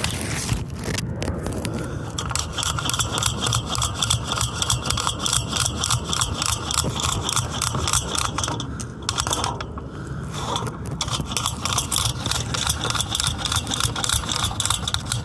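Sewer inspection camera's push-cable reel being worked to feed the camera head down a drain line, giving a rapid, even mechanical clicking with a scraping undertone. The clicking thins out briefly about nine seconds in, then picks up again.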